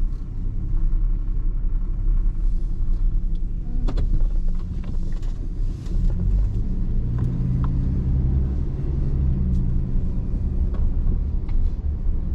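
Pickup truck driving, with engine and road rumble heard from inside the cab and a few light clicks and rattles. The engine note grows stronger from about seven seconds in as the truck gets under way.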